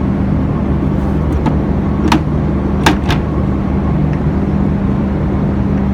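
Steady low machinery hum from the docked cargo ship, with a few sharp clicks or knocks about one to three seconds in.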